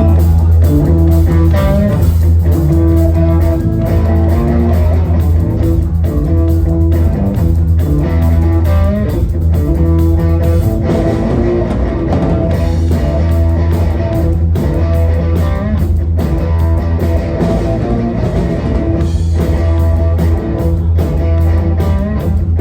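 Live rock band playing a loud blues-rock instrumental intro: electric guitar over a steady bass guitar line, with regular drum hits.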